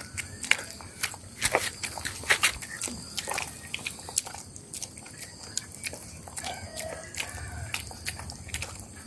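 A dog eating hungrily: irregular crunching and chewing clicks, quicker and louder in the first few seconds, then sparser.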